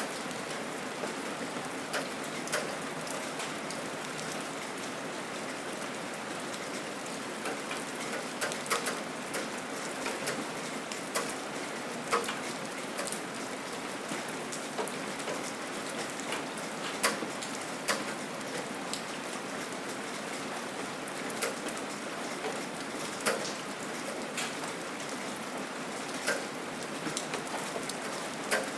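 Steady gentle rain falling, an even hiss with scattered louder drips and drops landing close by.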